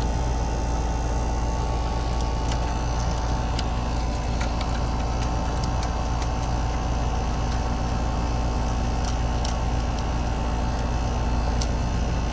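Central air conditioner running steadily, a constant mechanical hum with a steady pitched drone, while it settles before refrigerant readings are taken.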